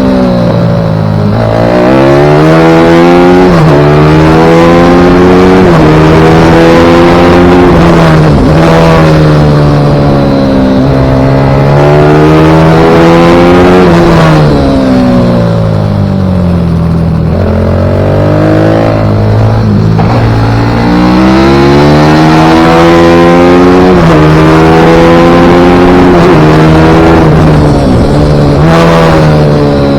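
Single-cylinder pit bike engine lapping a track at full throttle: the revs climb repeatedly through the gears in stepped rises and drop back as it slows for corners, several times.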